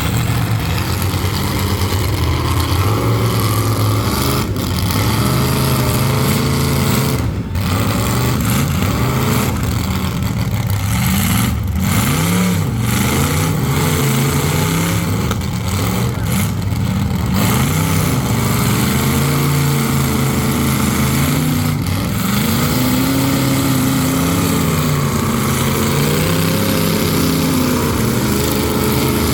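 Several full-size demolition derby cars' engines revving, their pitch climbing and falling every second or two over a constant loud din.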